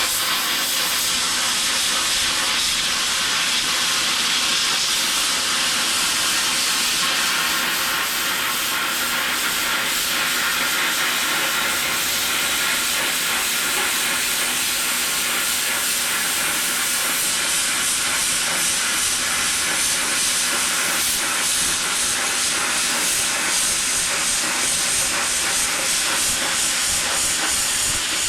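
Plasma cutter cutting a circle out of steel plate, a continuous steady hiss of air and arc.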